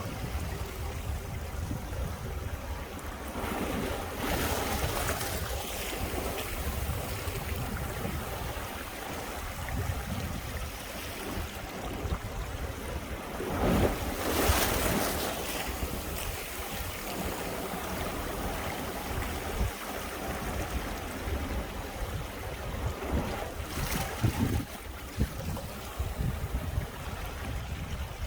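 Sea waves breaking and washing over rocks, with loud wash surges about four seconds in, near the middle and near the end. Cold winter wind blows throughout, buffeting the microphone with a low rumble.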